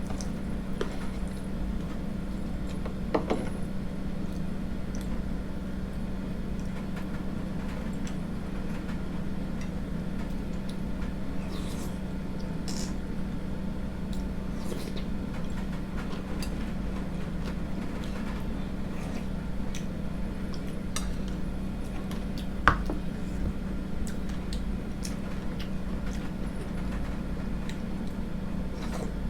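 Spoon clinking now and then against a bowl while porridge is eaten, with a few faint smaller ticks, over a steady low hum. The sharpest clinks come about three seconds in and near the end.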